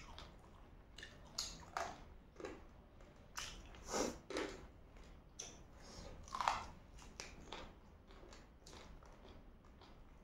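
Close mouth sounds of eating fried chicken feet: irregular biting and chewing with soft crunches, a few louder bites about four and six and a half seconds in.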